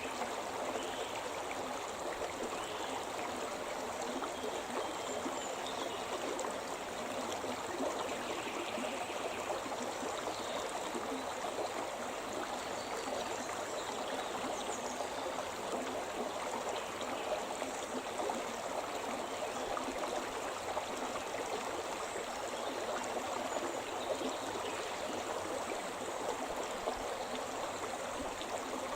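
Shimna River flowing over rocks: a steady, even rush of running water.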